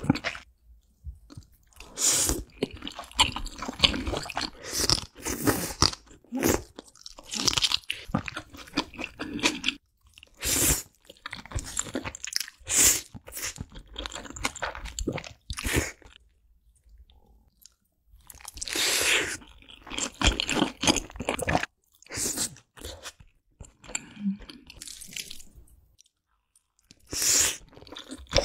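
Close-miked ASMR eating: a person chewing big mouthfuls of black bean noodles, with wet crunching and biting in irregular bursts and short pauses between mouthfuls.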